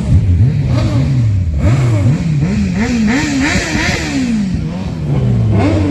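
Superbike engine revved in a series of quick throttle blips, its pitch jumping up and falling back several times and quickening about halfway through. The revs then fall away in one long glide and climb again near the end.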